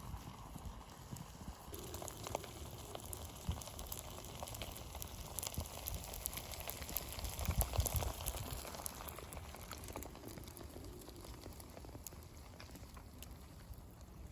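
Wood campfire crackling, with scattered small pops over a soft hiss; the pops come thickest about halfway through.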